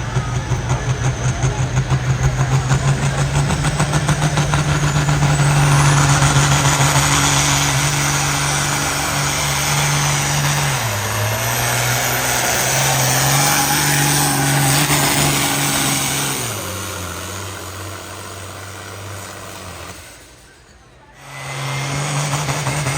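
A pulling vehicle's engine running hard under load. Its pitch steps down twice, then it fades away. After a brief drop to near quiet, an engine is heard again near the end.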